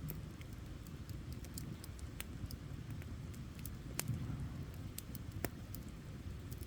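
Wood campfire crackling: a steady low rumble of flames with irregular sharp pops, two louder pops about four and five and a half seconds in.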